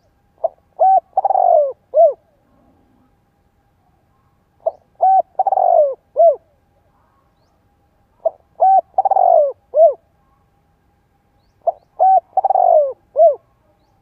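Spotted dove cooing: the same phrase four times, about every three and a half seconds, each two short coos, a longer falling burred coo and a short closing coo.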